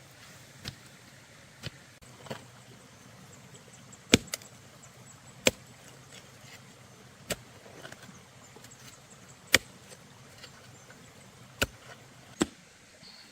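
Hand tool striking wood: about ten sharp blows at uneven intervals, a few much louder than the rest.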